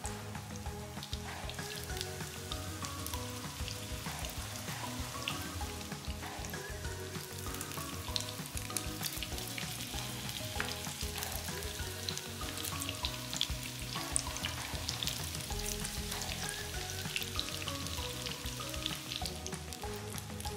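Hot oil sizzling and crackling around apple-filled dough rolls frying in a pan, busier in the second half, with a spatula and tongs scraping and clicking against the pan as the rolls are turned.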